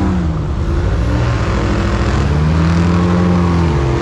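Airboat engine and propeller running loud, the engine note climbing and then easing back off near the end.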